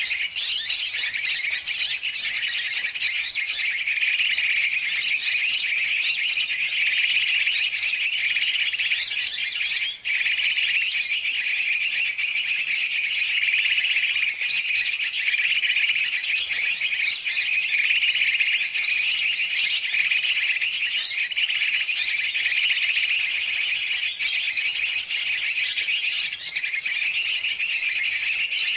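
A dense, unbroken chorus of many small birds chirping and trilling at once. This is a bird-lure (pikat) recording of mixed bird calls, used to draw wild birds in.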